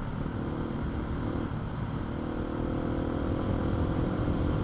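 Husqvarna motorcycle engine running at a steady throttle while riding a loose gravel track, over a constant low rumble of wind and tyre noise.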